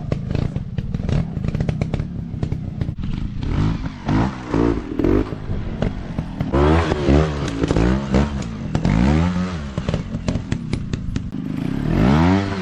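Dirt bike engines revving in repeated short blips, the pitch rising and falling again and again, over a running clatter of sharp knocks and scrapes.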